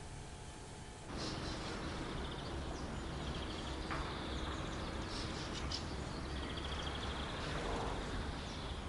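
Faint countryside ambience starting about a second in: small birds chirping in short repeated trills over a low steady rumble.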